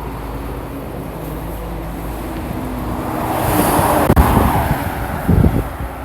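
Road traffic on a busy highway: an engine hums steadily, then a vehicle passes with a swelling rush that peaks about four seconds in and fades. A few short low thumps come near the end.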